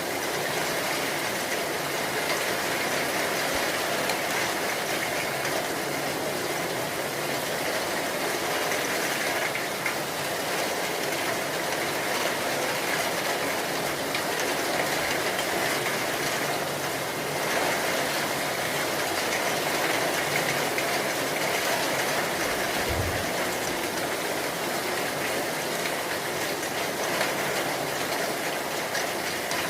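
Steady heavy rain, an even rushing hiss with no thunderclap.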